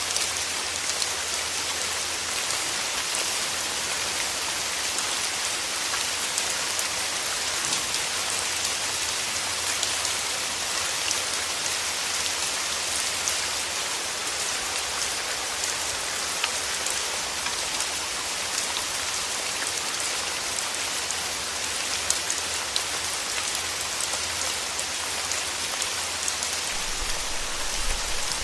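Steady rain falling: an even hiss with fine patter of drops. A low rumble of thunder starts building near the end.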